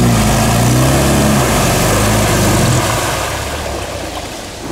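Moskvich 412's petrol engine revving hard under load as the car works through a deep mud rut. The pitch drops about a second and a half in, and the engine eases off toward the end.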